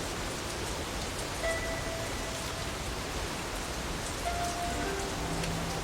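Steady rain, with a few soft held notes of background music.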